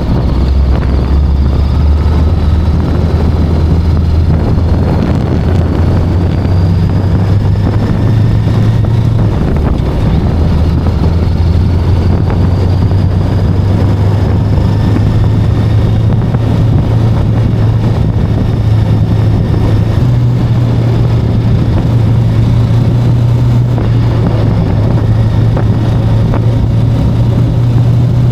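VOGE 525DSX motorcycle's parallel-twin engine running under way, its note climbing slowly in a few steps, mixed with steady wind and road noise.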